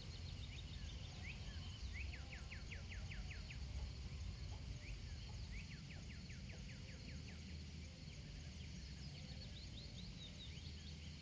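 Forest ambience: a bird sings rapid runs of short, downward-sweeping notes, about five a second, twice. A steady high insect drone runs underneath.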